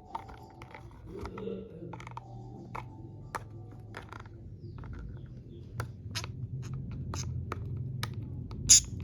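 A budgie pecking and knocking at a toy: irregular sharp clicks and taps, often several a second, with one louder, sharper hit near the end.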